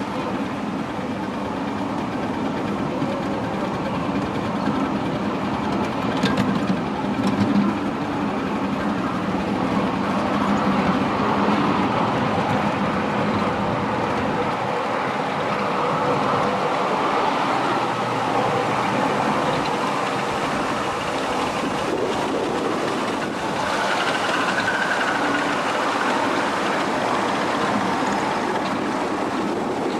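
Miniature ride-on railway train running along its track, a steady rumble with a few sharp clicks about six seconds in.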